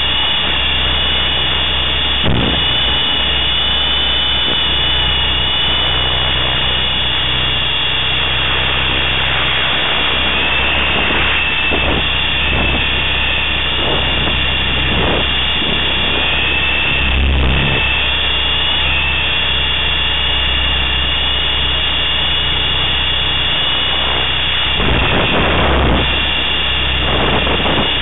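Electric T-Rex 500 RC helicopter in flight: its brushless motor and gears give a steady high whine that wavers slightly in pitch, over a low drone from the rotors. There are occasional brief rushes of noise.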